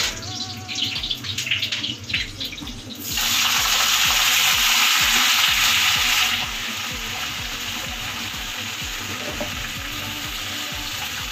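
Lettuce stir-frying in hot oil in a wok: a crackling sizzle, then a sudden loud hiss about three seconds in as the wet leaves go in, which eases after about three seconds to a steady sizzle.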